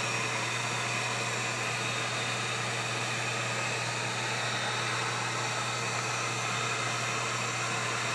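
Heat gun blowing steadily, heating the adhesive under a replacement iPad 4 digitizer glass to set it.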